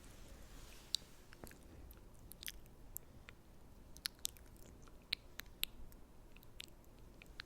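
Close-miked wet mouth sounds: sticky, irregular clicks and smacks of the lips and tongue, a dozen or so scattered over a faint hiss.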